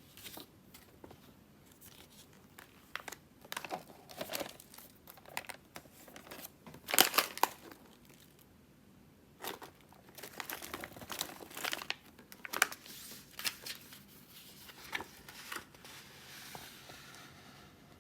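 Plastic packaging crinkling as it is handled, in irregular bursts of crackles. The loudest burst comes about seven seconds in, followed by a short lull.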